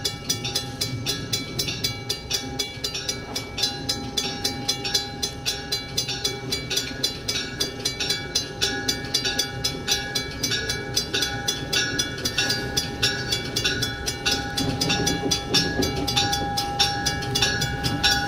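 A bell rings rapidly and steadily over the engine of a slow-moving diesel switcher locomotive approaching a level crossing.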